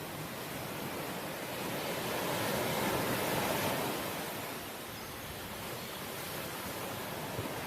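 Ocean waves breaking and washing on the shore. One swell builds to its loudest about three seconds in, then falls back to a steady wash.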